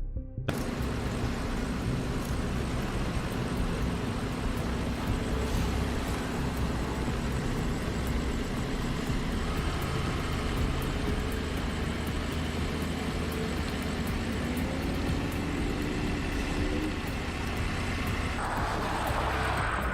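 Heavy transport truck's engine running steadily as the rig moves, with road noise throughout. The engine's pitch rises slightly about two thirds of the way through.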